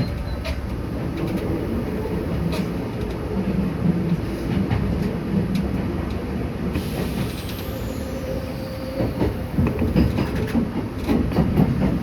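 Entetsu electric commuter train heard from inside the passenger car while running: a steady rumble of wheels on rails with scattered clicks over rail joints. A thin high whine falls in pitch about seven seconds in.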